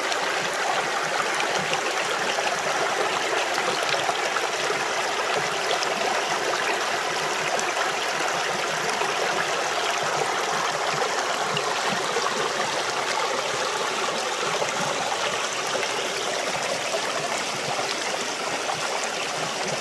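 Creek water running: a steady rush and trickle of flowing water.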